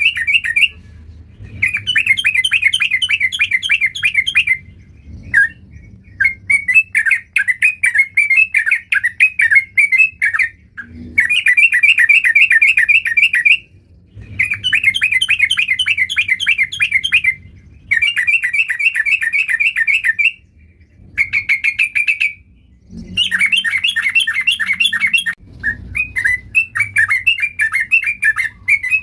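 Yellow-vented bulbul (trucuk) in full song: about eight loud, bubbly phrases of rapid notes, each lasting two to four seconds, with short pauses between them.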